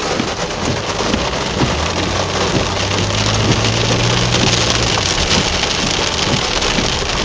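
Heavy rain pouring down. From about half a second in until nearly five seconds, a vehicle engine hums steadily and low underneath it.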